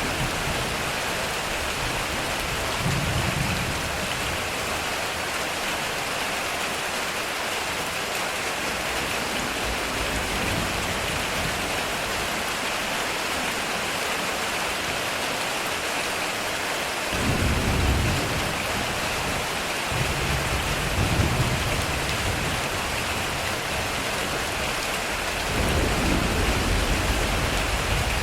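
Heavy rain pouring steadily on a metal roof, with low rolling thunder rumbles: a short one about three seconds in, a longer stretch past the middle, and another near the end.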